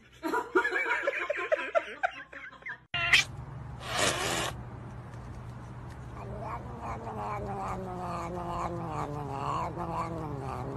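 Domestic cats vocalising: first a run of quick, wavering mewing calls from a cat offered food on a spoon, then another cat gives a short hiss followed by a long, drawn-out yowl that slowly falls in pitch as a finger touches its face.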